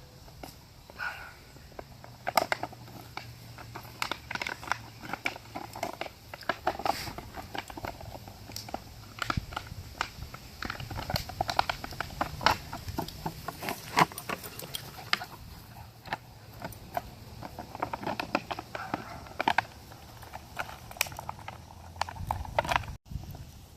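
Puppies scuffling and moving about: a dense, irregular run of quick clicks, taps and scrapes.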